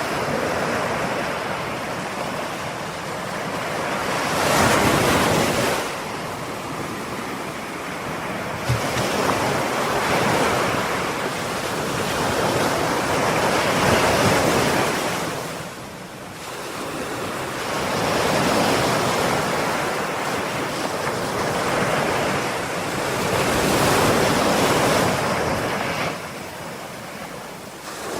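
Ocean surf: waves breaking and washing in, the rush swelling and fading about four times. There is one short tick about nine seconds in.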